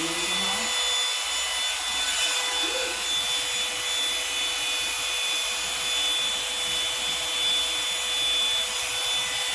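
Revlon One-Step Volumizing hot-air brush dryer running steadily with a fan whine, blowing on its cool setting as the brush is held in the hair.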